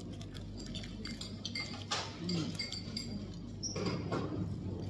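Crunchy chewing of a fresh lettuce-and-herb wrap, with scattered clinks of dishes and cutlery around it, over a steady low hum.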